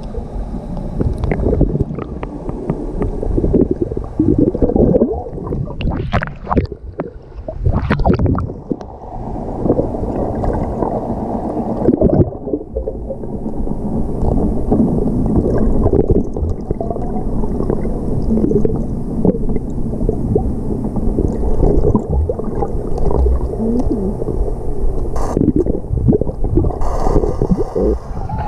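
Muffled sloshing and bubbling of pool water heard through an underwater GoPro housing as dogs paddle and wade right by it, with a few sharper splashes about six to eight seconds in.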